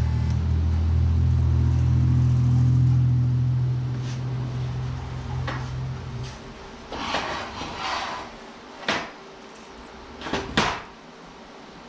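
A shop machine's electric motor hums loudly, then is switched off and winds down over a few seconds. A handful of sharp metal knocks and a short scrape follow as pieces are handled.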